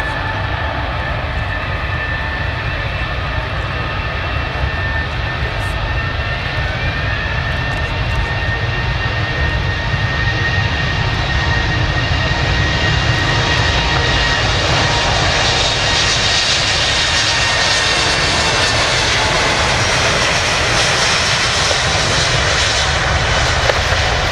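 Airbus A380's four Rolls-Royce Trent 900 jet engines whining and running up. The whine rises in pitch about a quarter of the way in, and the roar grows louder through the second half, as when an airliner spools up on the runway for takeoff.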